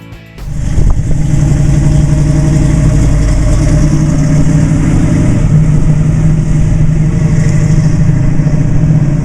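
A 1972 Chevrolet Nova SS's 350 V8 running at fairly steady revs, starting about half a second in.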